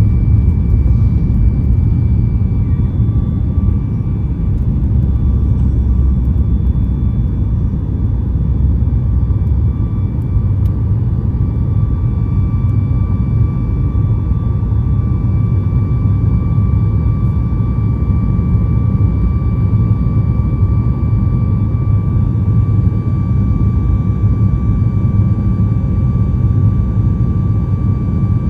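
Boeing 737 MAX's CFM LEAP-1B jet engines running steadily, heard inside the cabin: a deep rumble with a few thin, steady whining tones above it.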